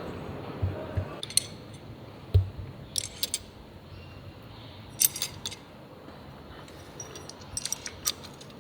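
Metal hand tools and small engine parts clinking and being set down during an engine rebuild, with a scattering of light metallic clicks and a few dull knocks, the loudest about two and a half seconds in.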